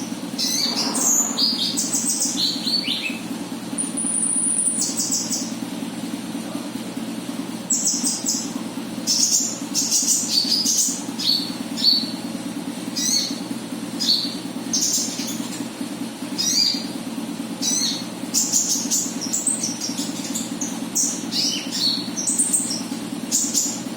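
Calls of the konin bird, as used for a lure (pancingan) track: clusters of short high chirps and quick falling runs of notes, repeated every second or two. A steady low hum runs underneath.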